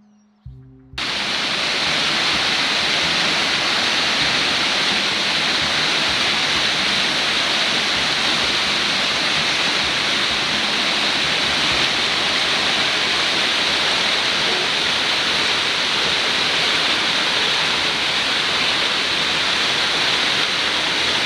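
Waterfall: a steady, loud rush of falling water, starting after a gap of about a second at the beginning.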